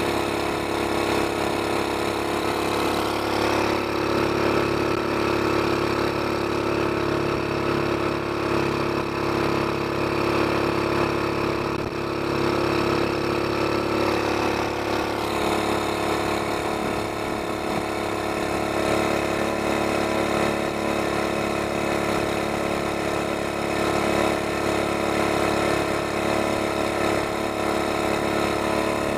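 Single-cylinder four-stroke GX200 mud motor running steadily through a Robertson's torque tube short exhaust pipe with muffler, which sends the exhaust out parallel to the drive shaft; the owner calls it fairly quiet.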